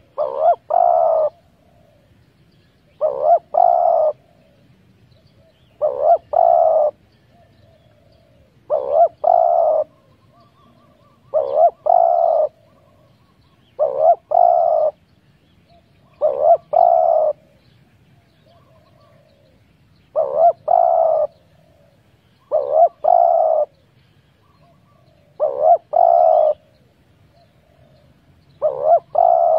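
Spotted dove cooing: a short phrase of a few quick coos, repeated about every three seconds, eleven times.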